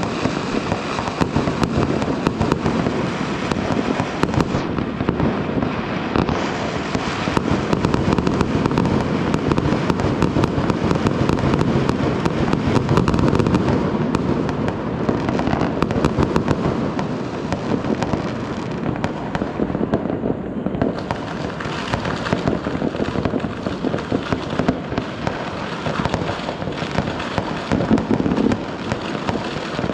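Fireworks and firecrackers going off in a dense, unbroken barrage: rapid sharp cracks and bangs overlapping with loud crackling.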